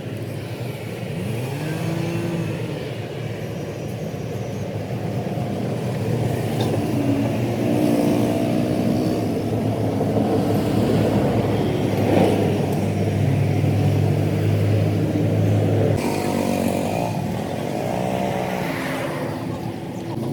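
Motor vehicle engines running and passing, their pitch rising and falling, with a sharp knock about twelve seconds in.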